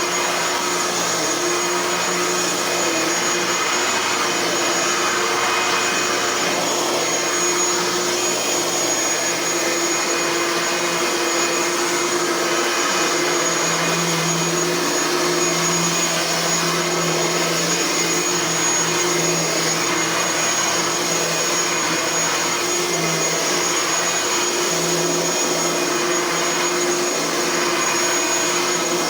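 Bissell Power Partner 800 10-amp upright vacuum cleaner running steadily as it vacuums, its motor giving a continuous high whine. The motor has a newly fitted fan, replacing one with damaged blades.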